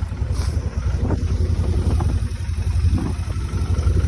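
Kawasaki Vulcan Nomad's V-twin engine running with a steady, pulsing low rumble.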